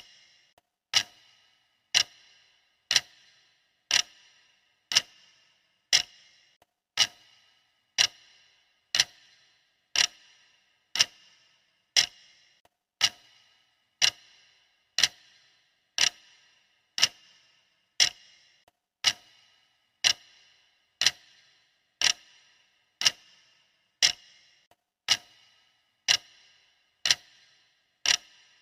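Countdown timer's clock ticking, one sharp tick every second, steady and even.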